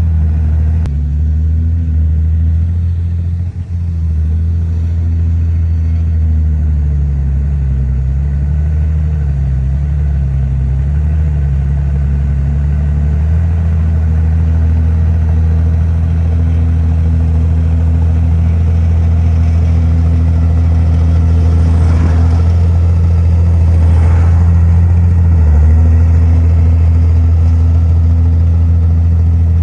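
Heavy diesel engine of an earthmoving machine running steadily, its pitch dipping and wavering for several seconds about a third of the way in. Two brief knocks come about three quarters of the way through.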